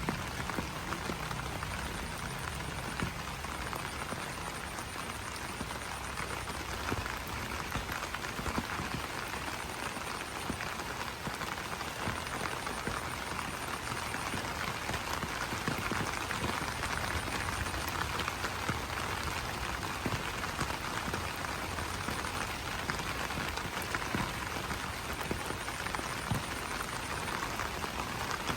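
Steady rain falling on broad banana leaves, a dense patter of drops. A faint, high, rapidly pulsing call, typical of frogs or insects calling in the rain, comes and goes several times.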